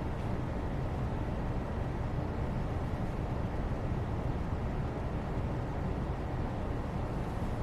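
Steady background white noise: an even, unchanging rumble-like hiss, strongest in the low end, with no distinct events.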